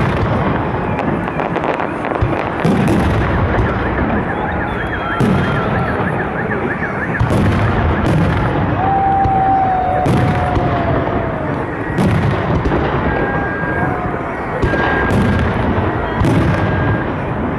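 Salute fireworks shells bursting with heavy booms every second or two, about ten in all, over the steady noise of a crowd of spectators.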